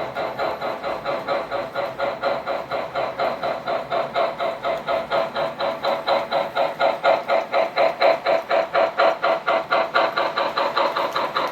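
Model steam locomotive's sound system chuffing steadily as the engine runs, about four to five chuffs a second, a little louder in the middle.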